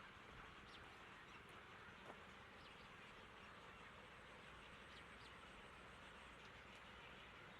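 Near silence: faint outdoor ambience with a steady hiss and a few faint, short high chirps.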